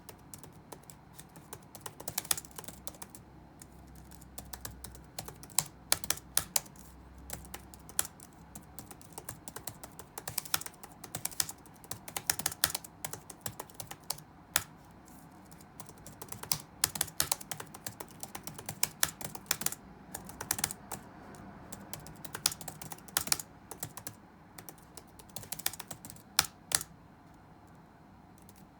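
Touch-typing on a computer keyboard: rapid, irregular runs of keystrokes with short pauses, and louder single clacks every few seconds. The typing stops near the end.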